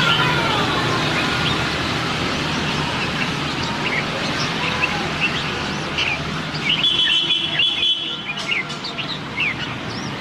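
Red-whiskered bulbuls singing: many short, quick chirping notes that rise and fall, with a held high note about seven seconds in.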